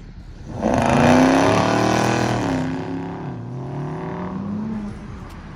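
Car engine at high revs, loud from about half a second in, its pitch sinking slowly, then dipping and climbing again before fading away: a car accelerating hard past.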